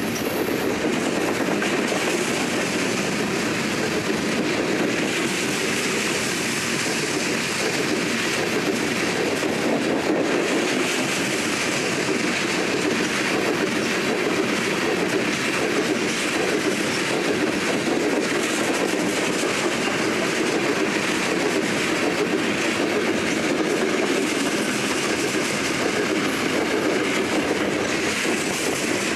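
A BNSF train's railroad cars rolling steadily past, steel wheels running over the rails.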